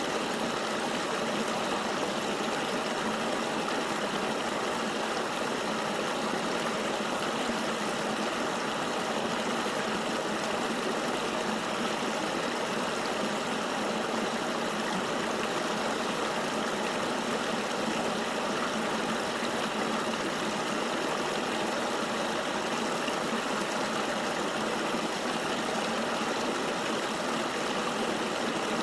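Steady rushing of a flowing river, an even hiss of moving water with no breaks or changes.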